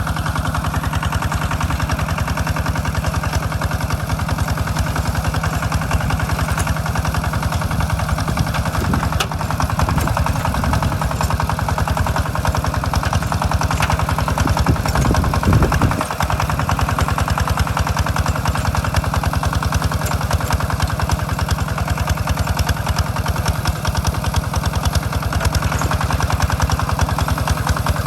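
Hand tractor's engine running steadily with a rapid, even chugging. The sound grows a little louder and deeper for a few seconds around the middle, then dips briefly.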